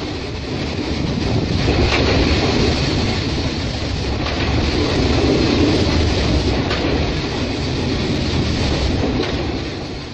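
Freight train of loaded open coal wagons rolling past on the rails: a steady rumble with a few faint wheel clicks, fading near the end.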